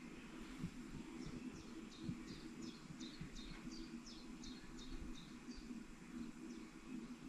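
A small songbird singing a run of about a dozen short falling notes, roughly three a second, that stops about five and a half seconds in. Under it runs a steady low hum with scattered low thumps.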